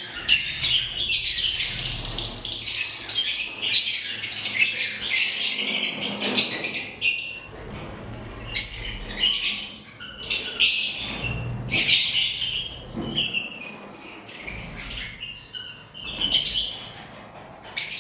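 Pet lovebirds chirping and squawking: dense overlapping high chatter for the first several seconds, then shorter, separate calls.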